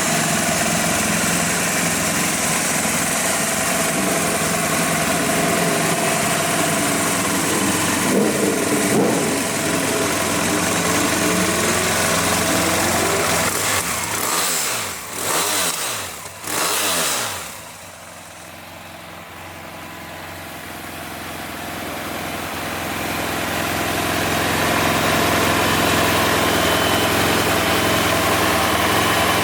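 BMW F800ST motorcycle's parallel-twin engine running steadily, with three quick blips of the throttle about halfway through. The sound then drops away suddenly and swells back gradually over several seconds.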